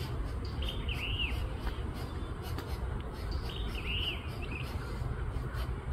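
A songbird calling twice, a short phrase of quick arched chirps each time, about three seconds apart, over a steady low rumble.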